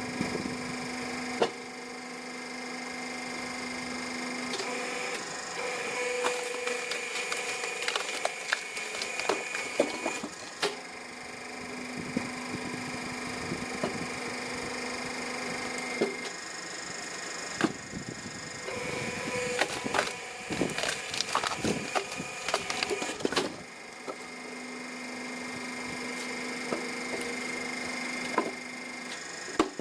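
Hydraulic log splitter on a mini excavator's arm running with a steady drone that shifts between a lower and a higher note every few seconds as the blade works. Logs crack and splinter under the blade in clusters of sharp cracks, the densest in the second half.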